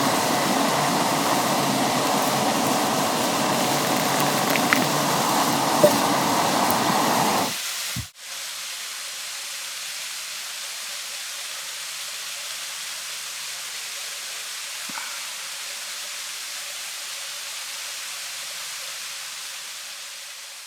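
Portable gas canister camp stove burner running, a steady roaring hiss that stops about seven and a half seconds in. A quieter, even hiss of rushing water follows, fading near the end.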